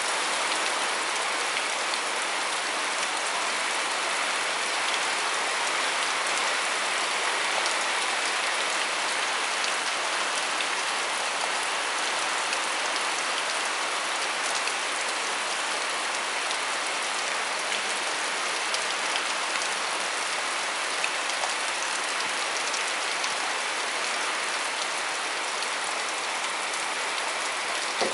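Heavy rain falling steadily on trees, a dense, even hiss that holds at the same level throughout.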